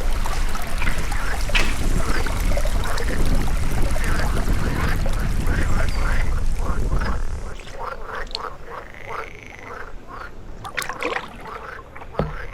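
Many short, repeated animal calls overlapping one another over a low rumble. The rumble drops away about seven seconds in, and the calls carry on more sparsely after that.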